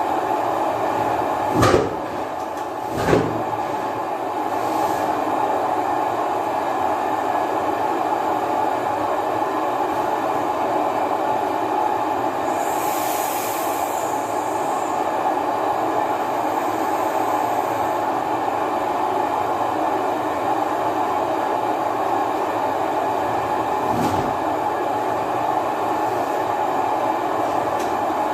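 35 hp Primo hot-bulb oil engine running steadily. Two loud knocks come about two and three seconds in, a short high hiss about halfway through, and another knock near the end.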